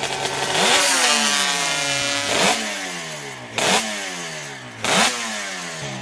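Motorcycle engine revved sharply four times, about every second and a quarter. The pitch falls away steadily after each rise, and a short loud burst marks each peak.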